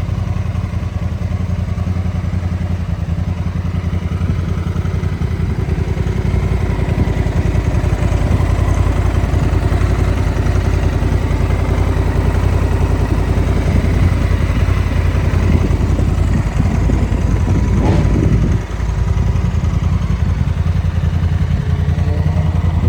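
Honda NT1100's parallel-twin engine idling with a steady, even beat. One short rev rises and falls back about eighteen seconds in.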